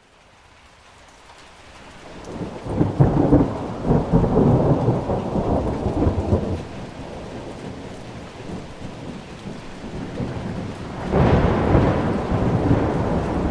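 Thunderstorm: rain hiss fades in from silence, then a deep roll of thunder builds about two seconds in and rumbles for several seconds before dying back to steady rain. A second thunder roll breaks in sharply near the end.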